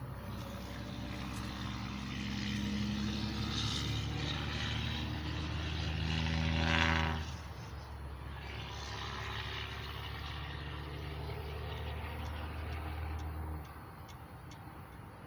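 A motor vehicle engine running steadily. It swells to its loudest about seven seconds in, then cuts off near the end, with a hiss alongside it.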